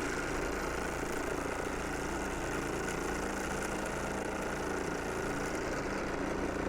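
Small live-steam stationary engines running steadily with a fast, even beat.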